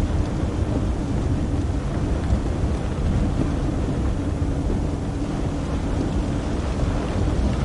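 Steady road and wind noise of a moving vehicle, with a low, even engine hum underneath.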